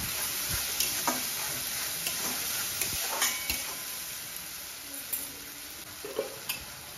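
Onion and spice paste sizzling in a steel kadai while a metal spatula stirs and scrapes it, with scattered clicks of the spatula against the pan. The masala is being fried down in oil; the sizzle grows a little quieter in the second half.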